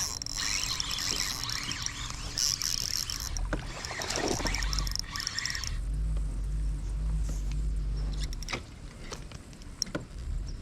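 Water splashing and sloshing around a fishing kayak. The splashing dies down about six seconds in, leaving a low steady hum and a few light knocks.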